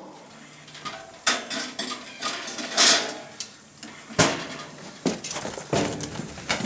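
Metal objects clattering and clinking in irregular knocks and short scrapes, as steel tools and a freshly tempered knife blade are handled on a workbench.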